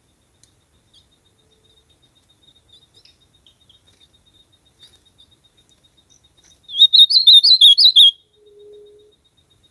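Ultramarine grosbeak (azulão) singing one short, fast warbling phrase of about a second and a half, about two-thirds of the way in.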